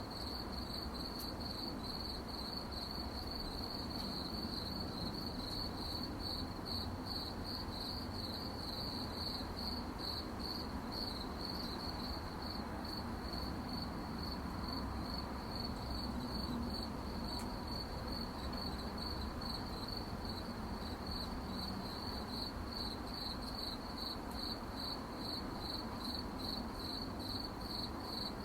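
Crickets chirping at night, a steady pulsing trill, over a faint low background hiss.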